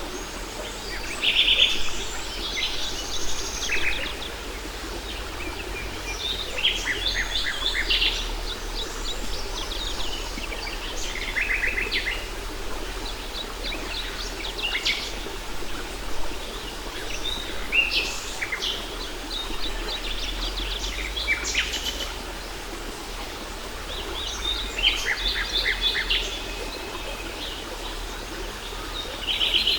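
Several songbirds singing repeated short chirping phrases over the steady rush of a waterfall.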